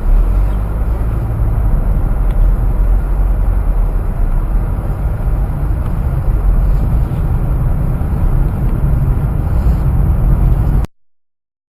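Dash-cam recording of a vehicle on the road: a steady, loud low rumble of engine and road noise with no distinct impacts. It cuts off abruptly near the end.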